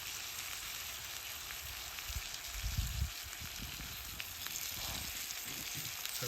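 Food sizzling in a frying pan: a steady frying hiss, with a few low bumps around two to three seconds in and again near five seconds.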